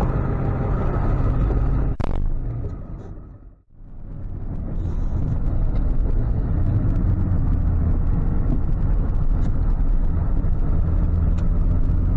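Ford F-550 tow truck driving, with a steady low engine and road rumble. A click comes about two seconds in, and the sound fades almost to nothing about three and a half seconds in before coming back steady.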